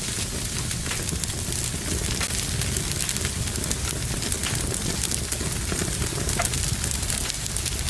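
Fire burning in a fireplace: a steady crackling hiss with frequent small snaps and pops.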